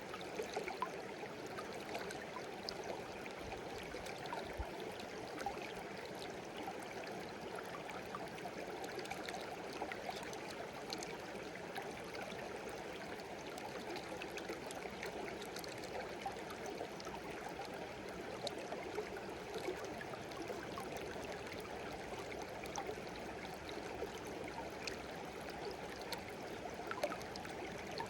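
A small stream babbling steadily, its flow dotted with many small splashes and water plinks.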